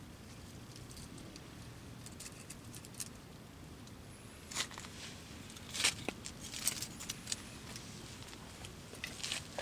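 A few sharp clicks and short scrapes of hand-held fire-lighting gear being worked, starting about halfway through, over a low steady background.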